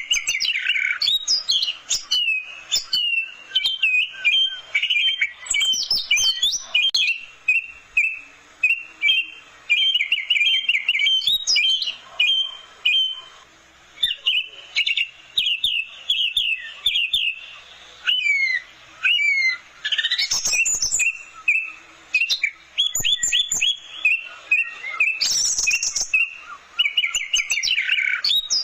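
Orange-headed thrush singing a long, varied song of rapid chattering notes and quick whistled sweeps, delivered in bursts with short pauses between them.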